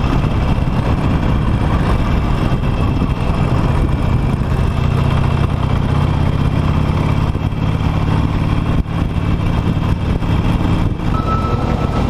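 Harley-Davidson Nightster V-twin engine running steadily during a ride, under a constant rush of wind and road noise.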